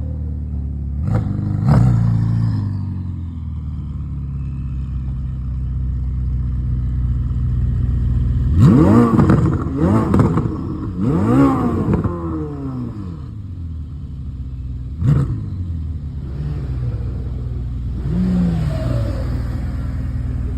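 Ferrari SF90's twin-turbo V8 idling with a steady low hum, blipped about a second in, then revved three times in quick succession around the middle. A sharp single blip follows a few seconds later, and a smaller rev comes near the end.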